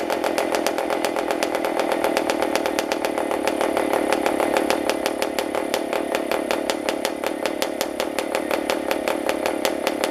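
PAW 40 model diesel engine with an APC 11x8 propeller running steadily at high speed, around its peak of about 9,000 RPM.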